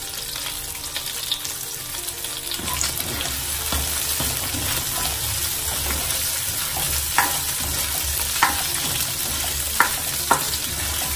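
Chopped onion and garlic sizzling in hot olive oil in a nonstick pan while being stirred with a silicone spatula. Four short, sharp clicks come in the second half.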